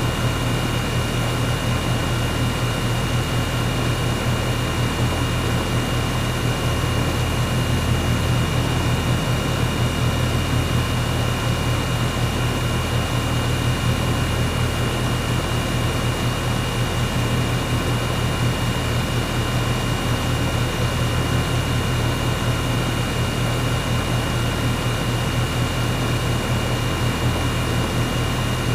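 Air conditioner running steadily: a constant low hum with an even rush of air and a few faint steady whining tones, unchanging throughout.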